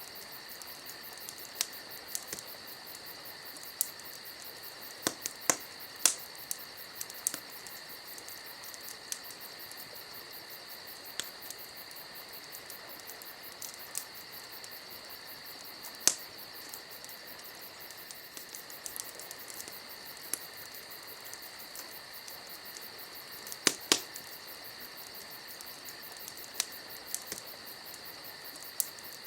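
Campfire crackling, with sharp wood pops every second or two and a few louder snaps, over a steady chorus of crickets chirring.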